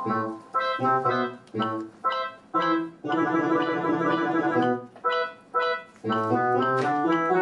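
Instrumental keyboard music: a series of short chord stabs, then a chord held for over a second, then quicker, more continuous notes.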